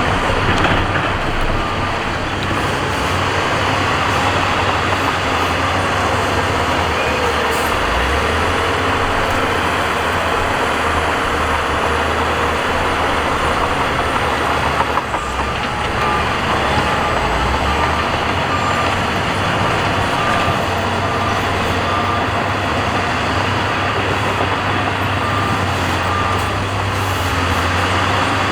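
Heavy earthmoving machinery's diesel engine running steadily under work. In the second half a reversing alarm beeps at a steady pace, about once a second.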